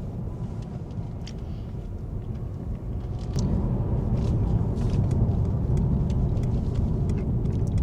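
Road noise heard inside a moving car: a steady low rumble that gets louder a little past three seconds in, with a few faint ticks.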